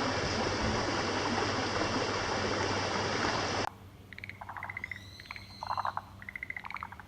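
A steady rushing noise for about three and a half seconds. It cuts off suddenly, giving way to frogs calling in short, rapidly pulsed trills, with a few higher whistling glides among them.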